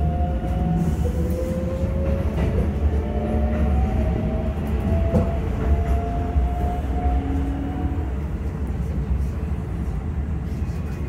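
Keikyu 600 series electric train running, heard from inside the passenger car: a steady low rumble of wheels on rail with the motors' whining tones above it. The tones slide slightly in pitch and fade out near the end.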